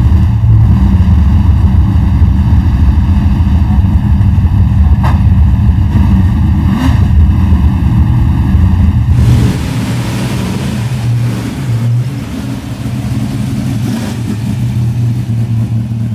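A race-built Ford V8 in a Fastback Mustang race car fires up and runs at a loud, steady idle through mufflers that replace its usual straight pipes. About nine seconds in, the sound drops and turns duller.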